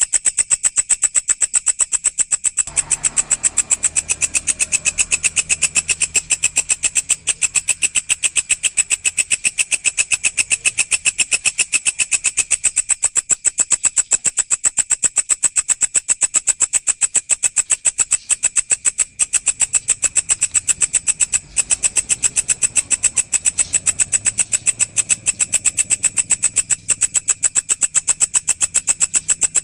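Walang (grasshopper) stridulating: a fast, even train of buzzy high-pitched pulses that goes on without a break. A faint low hum sits underneath from about three seconds in.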